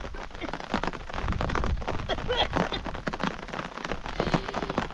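Rain falling and pattering on a surface, with dense irregular ticks of individual drops.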